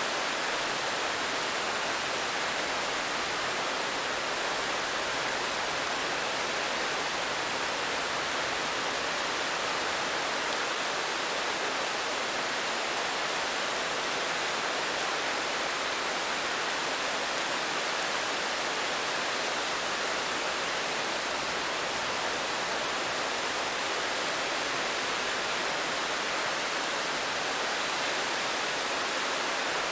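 Steady rain, an even hiss without individual drops standing out, unchanging throughout.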